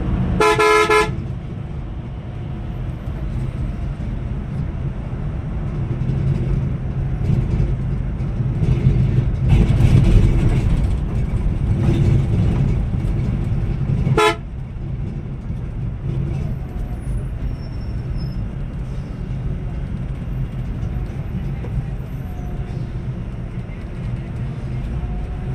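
A vehicle horn sounds twice, a blast under a second long near the start and a brief toot about 14 seconds in, over the steady drone of a Scania Metrolink multi-axle coach running along the highway.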